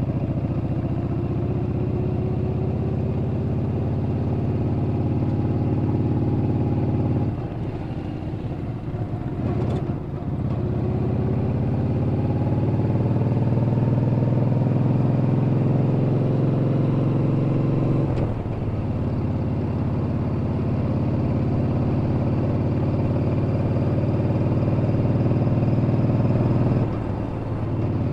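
Yamaha Bolt's air-cooled V-twin engine heard while riding, running steadily. The engine note dips briefly about a third of the way in, again about two-thirds in and near the end, and climbs slowly in pitch after each dip as the bike pulls through the gears.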